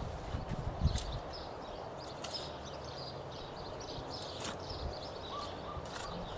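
Outdoor ambience: wind gusting on the microphone with low buffeting thumps near the start, and small birds chirping now and then.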